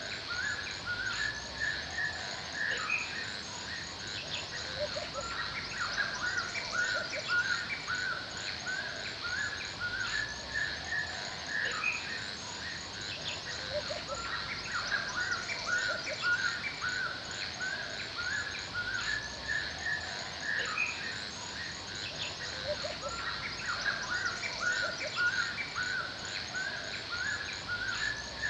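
Forest ambience: many small birds chirping and calling throughout, over a steady high-pitched insect buzz with a fast, even pulse.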